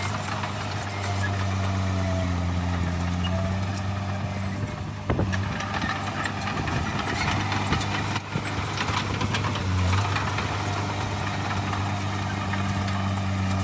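Heavy diesel engine of an earthmoving machine running steadily, its pitch dipping slightly now and then, with metallic clatter and a sharp clank about five seconds in and another about eight seconds in.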